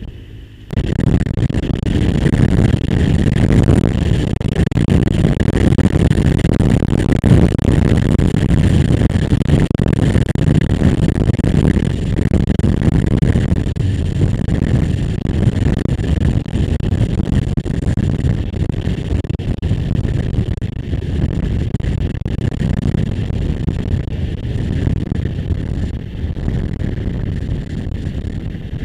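A motorcycle underway: wind rushing over the microphone with the engine running underneath, jumping sharply louder about a second in and then holding steady.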